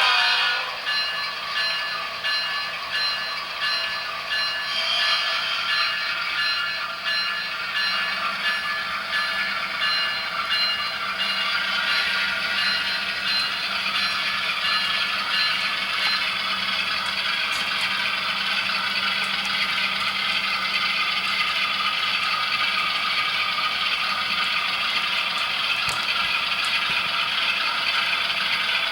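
Model train running on model railroad track: steady rattling and scraping of the wheels on the rails, with a faint electric-motor whine.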